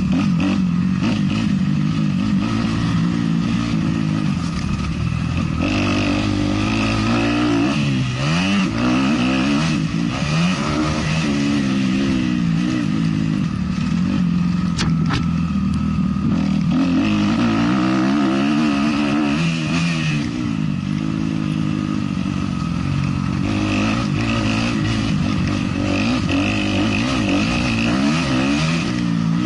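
Motocross bike engine being ridden hard, its revs rising and falling over and over as the throttle is opened and closed every second or two.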